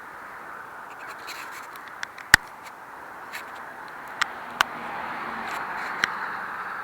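A handful of sharp clicks and knocks, the loudest about two seconds in, over a steady hiss.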